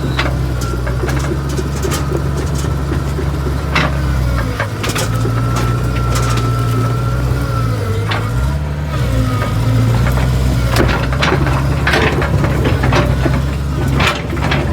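Excavator's diesel engine running steadily, with a high hydraulic whine, its pitch dipping briefly about halfway through, while the freshly re-mounted track clanks and pops and wood cracks as the machine works.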